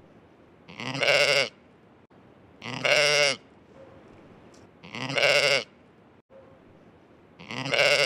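Sheep bleating: four loud, wavering bleats, each under a second long, about two seconds apart.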